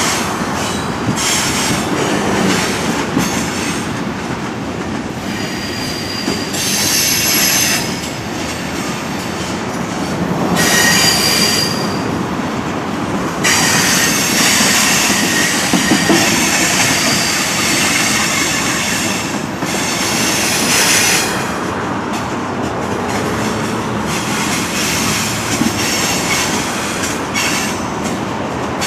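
Freight cars of a mixed freight train rolling past with a steady rumble and clatter. The steel wheels squeal shrilly in several stretches of a few seconds each.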